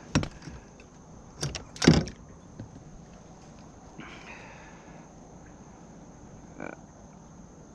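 A few sharp knocks and thumps against the kayak while a just-landed speckled trout is handled, the loudest about two seconds in, then a brief rustle and one small knock later.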